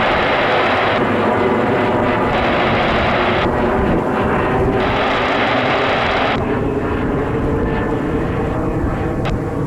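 Jet airliner engines running loud and steady: a continuous rush with a buzzing tone in it. The upper hiss fades and returns a few times.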